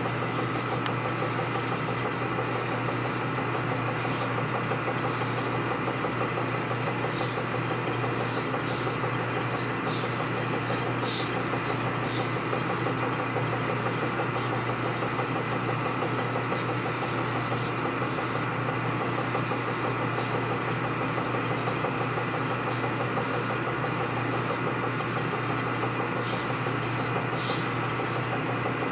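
Lathe motor running steadily while an oiled abrasive is held against the spinning workpiece, giving an uneven series of short, high scraping rubs over the hum.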